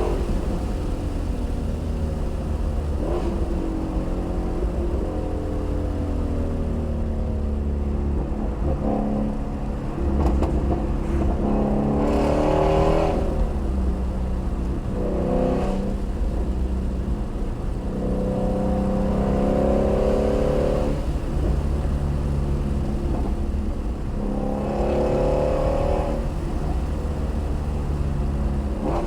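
Shelby GT350R's flat-plane-crank V8 pulling under way, its note climbing in pitch and dropping back several times as it revs up and comes off the throttle.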